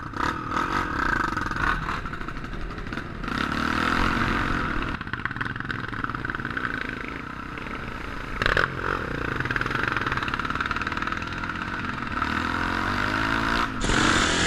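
Off-road motorcycle engine revving, its pitch rising and falling repeatedly, with a sharp knock about eight and a half seconds in.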